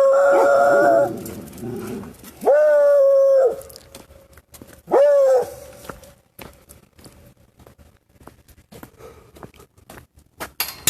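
A dog howling: three drawn-out cries, each sliding up and then held on one pitch, each shorter than the one before. Faint clicks and rustling follow.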